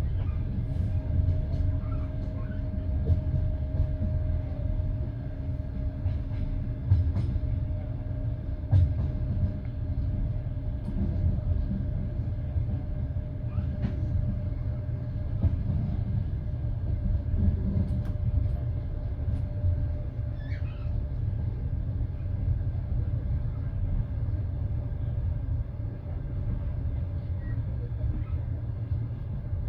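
Passenger train carriage running along the line: a steady low rumble of the wheels on the rails with a constant hum and a few scattered knocks, heard from inside the carriage.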